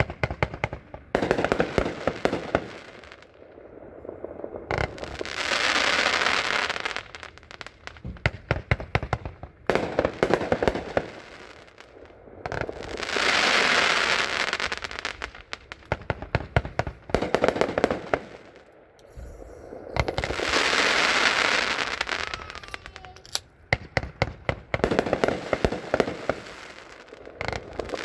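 A 45-shot consumer fireworks cake (Brothers 'High and Mighty') firing: fast runs of shots and bangs alternate with a swelling crackling hiss, the cycle repeating about four times.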